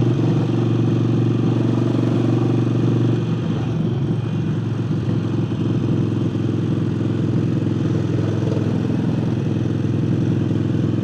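Harley-Davidson Forty-Eight's air-cooled V-twin, fitted with an aftermarket air intake, running under way at a steady, even pitch; about three seconds in the tone turns rougher and less even.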